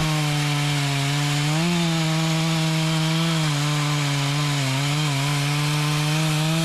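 Two-stroke chainsaw running at full throttle while cutting wood, its high engine note holding steady with small wavers in pitch.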